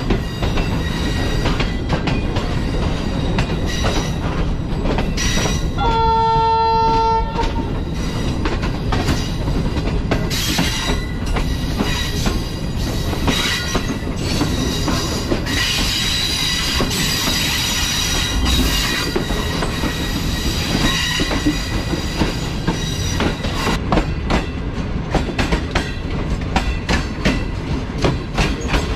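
Passenger train running along the track: a steady rumble with rapid clicks of the wheels over rail joints. A train horn sounds once, for about a second, about six seconds in.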